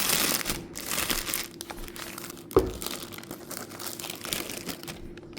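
Packaging crinkling and rustling as it is handled, with one sharp knock about two and a half seconds in, then softer rustling.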